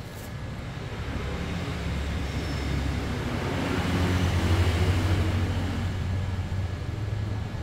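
A low engine rumble that swells to a peak about halfway through and then fades, like a motor vehicle passing by.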